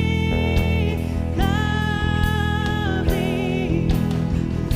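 Live worship band playing a slow song while a singer holds long notes on the word "lovely," with drum strikes underneath.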